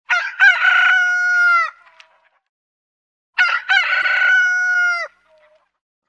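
Rooster crowing twice. Each crow opens with a few short broken notes, then holds one long note that drops away at the end. The second crow starts about three and a half seconds in.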